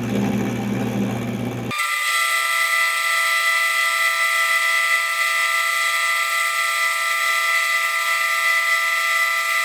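Milling machine taking a cut with an end mill in a steel block. Its low hum gives way abruptly, about two seconds in, to a steady high-pitched whine of several held tones with the low end gone.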